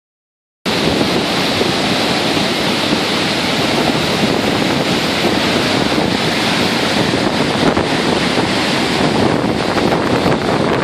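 Gullfoss waterfall: a steady, loud rush of falling water, cutting in about half a second in.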